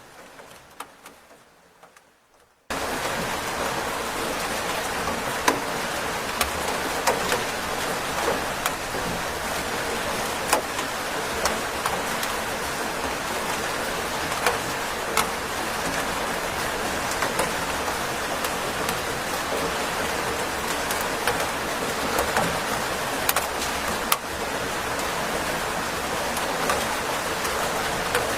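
Steady rain falling, with individual drops ticking through an even hiss. The sound first fades almost to nothing, then cuts back in abruptly about three seconds in.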